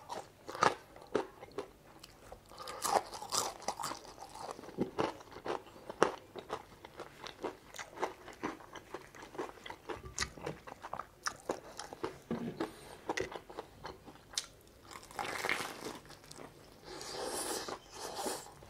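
Crunching and chewing of crispy fried chicken, many short sharp crackles as the breaded skin is bitten and chewed.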